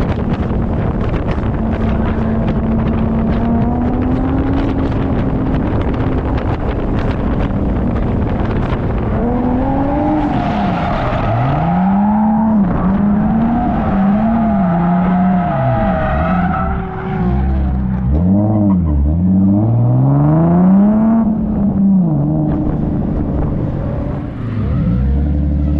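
Drift car's engine under hard driving on a track: a steady high-revving note with heavy tyre and road noise at first, then, from about ten seconds in, revs swinging up and down again and again as the throttle is worked.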